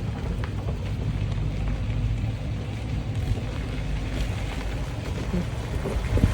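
Car driving slowly, a steady low rumble of engine and tyre noise heard from inside the cabin, with a brief knock just before the end.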